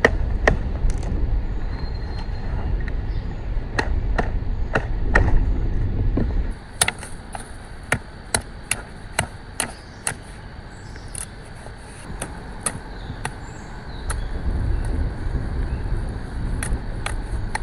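Wind buffeting the microphone with a low rumble, easing off after about six seconds and returning near the end. In the quieter middle comes a string of irregular sharp snaps and clicks, roughly one or two a second.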